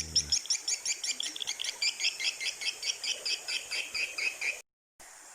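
Swiftlet twittering: a rapid train of high, even chirps at about eight a second, which cuts off abruptly near the end.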